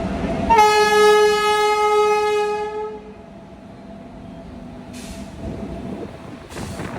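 Locomotive horn sounding one long blast of about two and a half seconds, followed by two short hisses.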